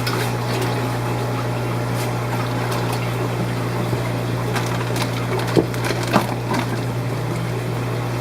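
Aquarium fish-room ambience: a steady pump hum with water running and trickling through the tanks. A couple of light clicks or knocks come about five and a half and six seconds in.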